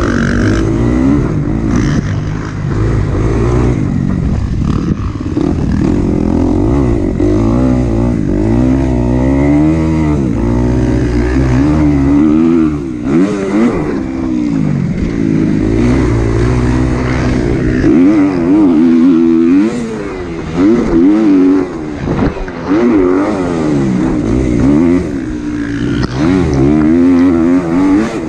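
Kawasaki KX250 four-stroke single-cylinder motocross bike racing, its engine revving up and falling back over and over as the throttle is opened and shut through the corners and jumps.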